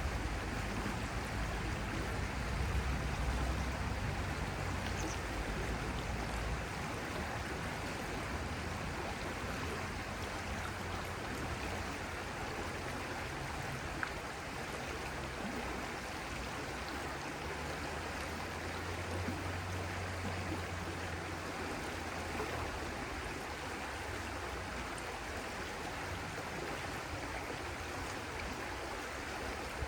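A stream flowing steadily, with a low rumble underneath that swells in the first few seconds and again around twenty seconds in.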